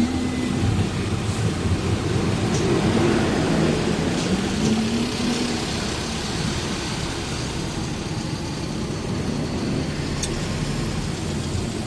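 Truck engine and road noise, a steady low rumble throughout.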